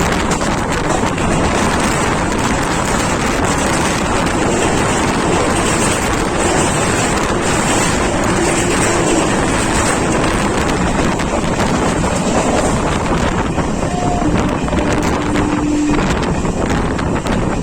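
Train running at speed: a steady, loud rumble of wheels on track mixed with heavy wind buffeting the microphone.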